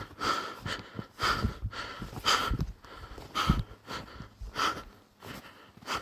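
Someone breathing hard, about one breath a second.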